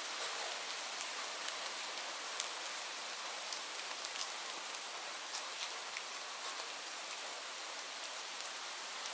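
Steady rain falling on leaves, a constant hiss with many individual drops pattering.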